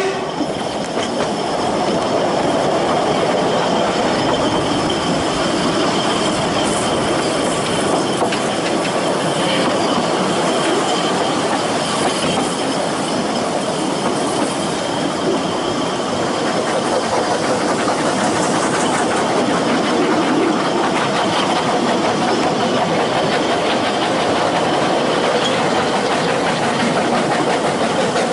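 Ffestiniog Railway narrow-gauge train running along the line: a steady clatter and rumble of carriage wheels on the rails, with a faint high wheel squeal over it.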